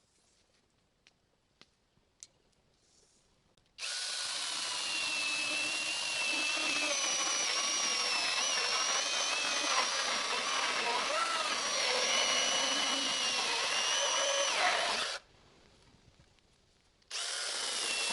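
Electric power drill running under load, its whine wavering in pitch, for about eleven seconds before stopping abruptly, then starting again near the end.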